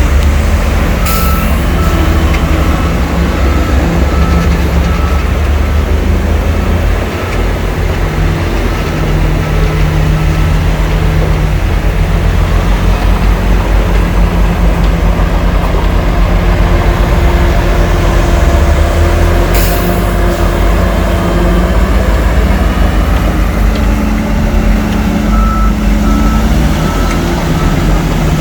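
Heavy diesel earthmoving engines of a bulldozer and dump truck running hard. A reversing alarm beeps steadily for a few seconds near the start and again near the end, and two brief hisses are heard, one near the start and one about two-thirds of the way through.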